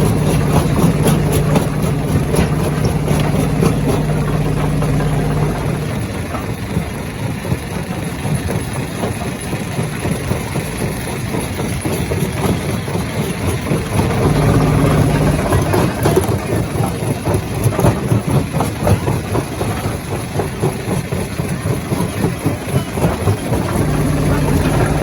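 Jaw crusher running and crushing rock: a deep steady machine hum under a dense, irregular clatter of knocks as stones are broken. The hum is strongest for the first few seconds, briefly in the middle, and again near the end.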